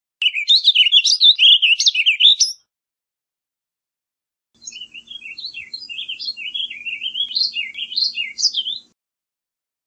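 Warbling vireo singing: two rapid, rambling warbled phrases. The first is loud and about two and a half seconds long; after a short pause comes a fainter, longer one of about four seconds.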